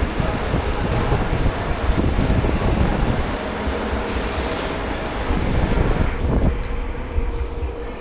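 Steady loud rumble and hiss of dish-pit machinery and water. The high hiss cuts off about six seconds in.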